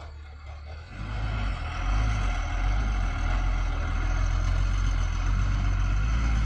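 Heavy diesel engine of a backhoe loader running. It grows louder over the first two seconds, then holds steady.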